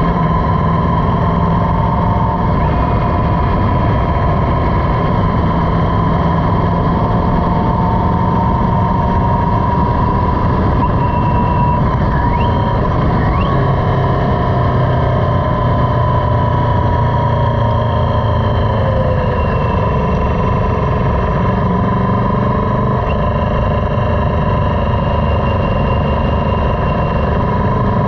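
Motorcycle engine running while riding, under steady wind noise on the microphone. Its pitch drifts with road speed and falls away about twenty seconds in.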